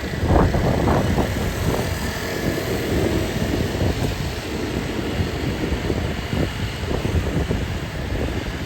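Street ambience with a steady low rumble of vehicle engines passing close by.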